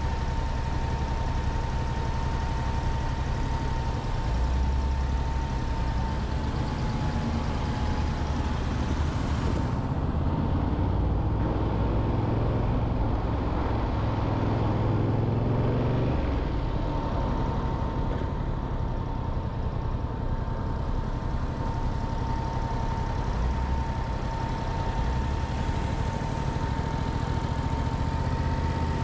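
Motorcycle engine running at low revs with a steady rumble and a thin steady whine, swelling for a few seconds in the middle.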